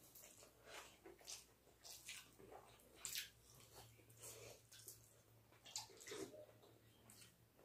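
Soft, wet chewing and lip-smacking of people eating chicken curry and rice with their fingers: irregular short mouth sounds every fraction of a second, the loudest about three seconds in.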